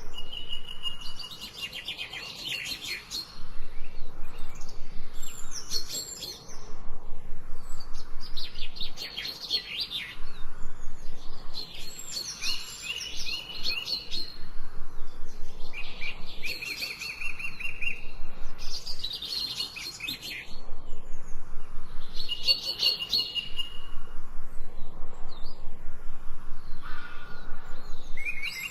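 Songbirds singing: a song phrase of rapid, high trills comes about every three to four seconds, each phrase lasting around two seconds.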